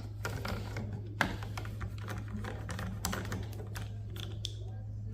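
Scattered light clicks and taps of hand tools and small metal parts on an electronic circuit board being pulled apart for scrap, over a steady low hum.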